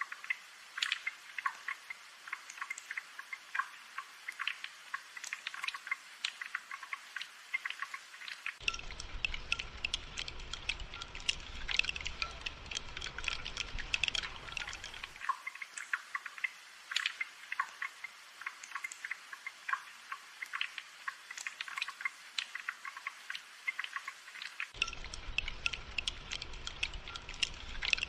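Gentle spring rain falling as many separate drops dripping, densely and unevenly. A faint low rumble comes in about nine seconds in, drops out around fifteen seconds, and returns near the end.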